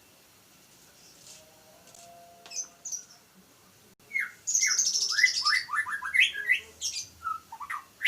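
Young murai batu (white-rumped shama) singing. After a few seconds of only faint, scattered notes, it breaks into a fast, loud phrase of quick downward-sweeping whistles mixed with high, buzzy notes.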